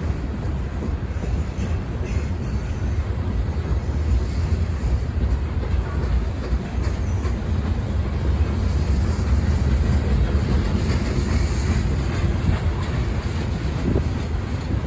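Freight train cars rolling past: a steady, continuous rumble.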